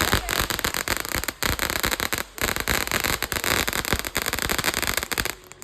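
Tiger's Fury consumer firework going off: a dense, rapid run of crackling pops over a steady noisy hiss for about five seconds, then stopping suddenly.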